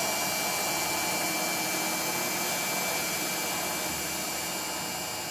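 Miele Econic WT1500 washer-dryer spinning its drum at high spin speed: a steady whirring hum that slowly dies away in the second half.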